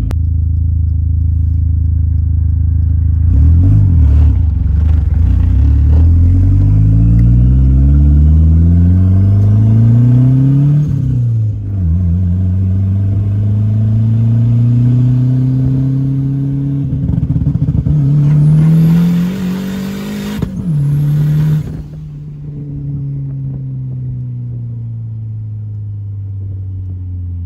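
Dodge SRT-4's turbocharged four-cylinder engine heard from inside the cabin, accelerating with a rising pitch, dropping as it shifts about eleven seconds in, and climbing again. A hiss with a high whistle rides over the engine near the top of the second pull, then the revs fall and the engine settles to a lower, steadier note.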